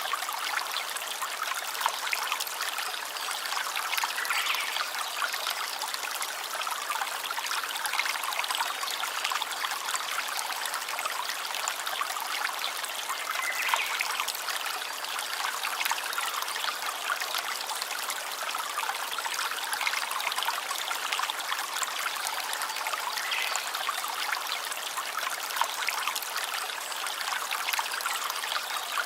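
A stream of water trickling and splashing steadily.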